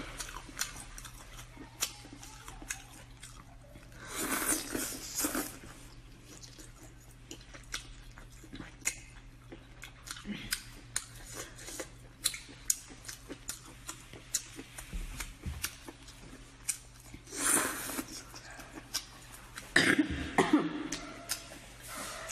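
Close-up eating sounds: chewing, lip smacks and wet mouth clicks as skewered grilled octopus tentacles are bitten off and chewed, with a few louder breathy bursts about four seconds in, near the seventeen-second mark and near the twenty-second mark.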